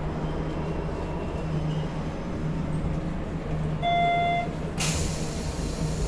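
Hanshin Electric Railway train car standing at a station: a steady low hum from the car's equipment, a short electronic beep about four seconds in, then a hiss of air for about two seconds.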